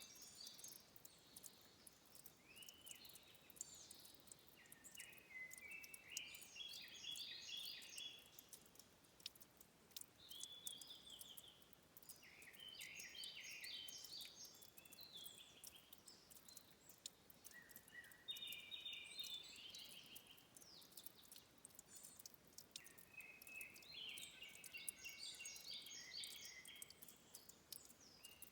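A songbird singing faintly in about six phrases of rapid, high, trilled notes, separated by pauses of a few seconds. Many small, faint clicks of dripping water run underneath.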